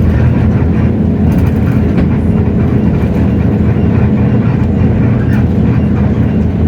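Hino J08E-VN 7.7-litre inline-six diesel engine of a city bus running steadily under way, heard from inside the cabin, with a few faint clicks.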